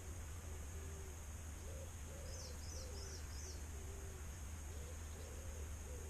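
Faint birdsong: a low cooing call repeats on and off, and a small bird gives a quick run of four high chirps about two and a half seconds in, over a steady low hum.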